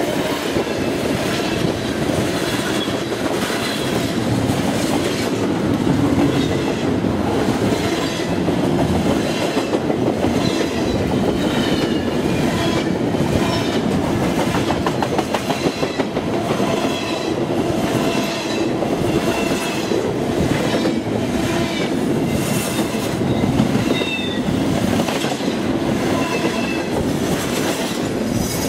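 Railroad cars rolling past steadily, their wheels clicking over rail joints in a regular clickety-clack, with short high-pitched wheel squeals recurring throughout.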